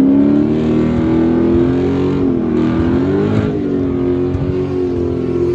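Car engine held at high revs, its pitch wavering gently up and down.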